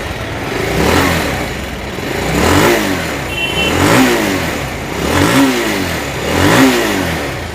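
Bajaj Pulsar 220's single-cylinder engine, freshly reassembled, running and being revved up and back down about five times. No knocking from it now that the balancer's scissor gear, which had been one tooth off, is set right; only a slight rocker noise remains, which the mechanic puts down to loose rockers needing tightening.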